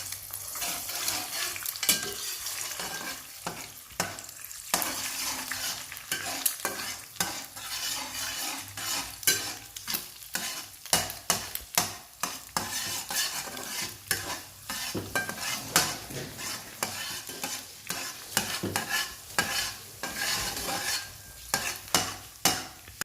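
An egg frying in hot cooking oil in a frying pan, sizzling steadily, while a spatula stirs it with frequent irregular scrapes and clicks against the pan.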